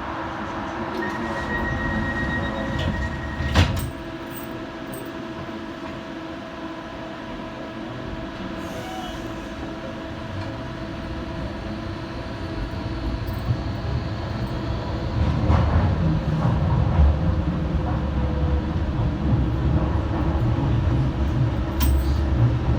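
Inside a Docklands Light Railway train: the car's equipment hums steadily while it stands, with a single knock about three and a half seconds in. From about fifteen seconds in a low rumble of the wheels builds as the train gets moving after being held.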